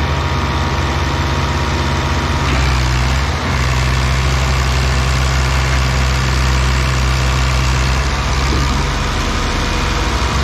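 Tractor engine running steadily and loudly, with a deep low hum.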